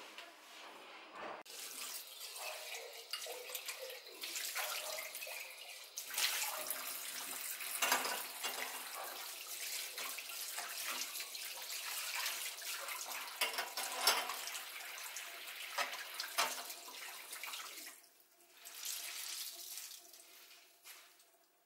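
Kitchen mixer tap running into a sink, the stream splashing over a hand as something is rinsed under it; the water is turned off near the end.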